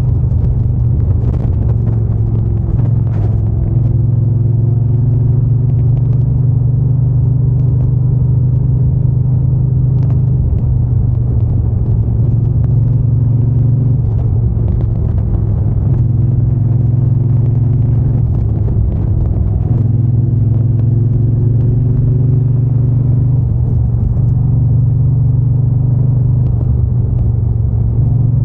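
Triumph Bonneville T120's parallel-twin engine and exhaust running under way, its pitch climbing and easing off several times with the throttle and gear changes.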